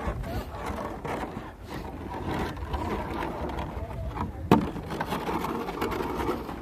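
Sled sliding and scraping over icy snow, a steady rough scrape with small rattles and one sharp knock about halfway through.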